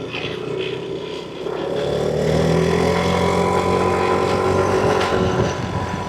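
Yamaha NMAX V3 scooter's single-cylinder engine running under way. About a second and a half in, the throttle opens and the engine note rises and grows louder, then holds steady as it cruises.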